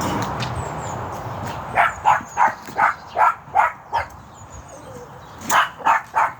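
A dog barking in a quick series of about seven barks, then three more near the end, after a steady rushing noise fades out in the first second or so.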